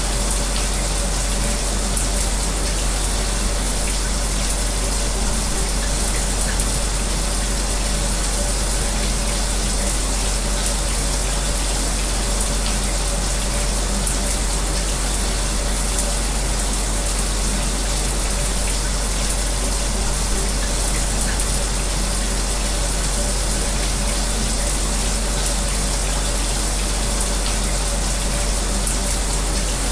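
A shower spraying steadily, mixed with an electric fan, with a faint steady hum under the even rush of water.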